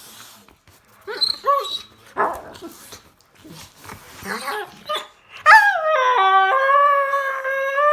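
A young Rottweiler making its excited, happy noises: a few short whining yips and grunts, then, about five and a half seconds in, one long drawn-out whining howl held at a steady pitch.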